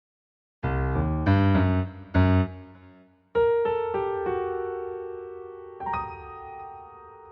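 Background piano music: after a brief silence, several quick struck chords, then two held chords left ringing and slowly fading.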